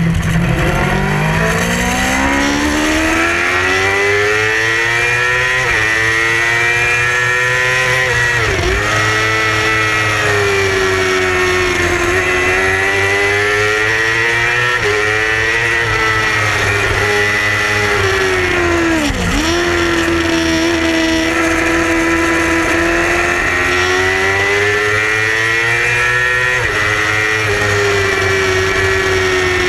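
Yamaha R6 600cc inline-four race engine running hard at high revs. Its pitch climbs through the gears and rises and falls through corners, dropping sharply and recovering twice under hard braking and downshifts.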